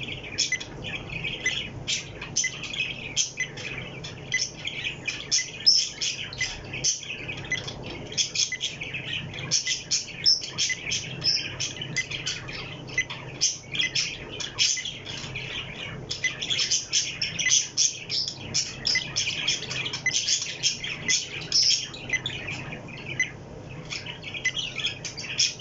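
A small bird chirping and twittering quickly and without a break, many short high notes, over a faint steady low hum.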